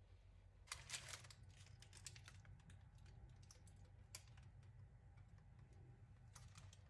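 Faint scattered clicks and light taps over near silence: a small cluster about a second in, single clicks around two and four seconds, and a few more near the end.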